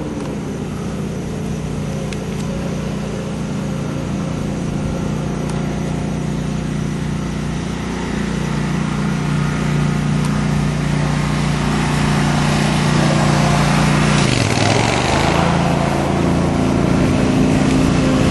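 Steady hum of a small motor or engine, several pitched tones together, growing slowly louder, with a brief dip in pitch and a rush of noise about fourteen seconds in.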